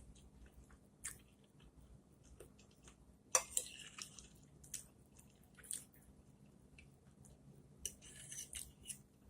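Close-miked eating: faint chewing and wet mouth sounds, broken by scattered sharp clicks. The loudest click comes about three seconds in, and a quick cluster follows near the end.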